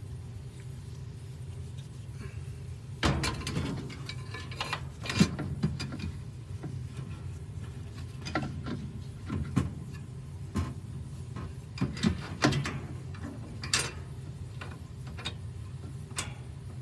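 Washing machine parts being fitted back in by hand: a series of irregular clicks and knocks as a part is worked into its seat, over a steady low hum.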